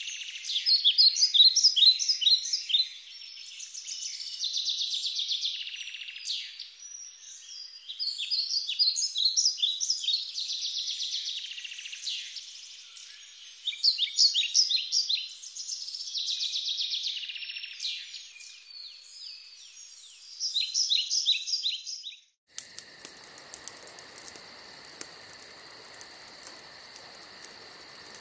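Songbirds singing: repeated bursts of quick, high chirps and sweeping whistled notes, a few seconds at a time. Near the end the birdsong cuts off abruptly and steady, high cricket chirring takes over.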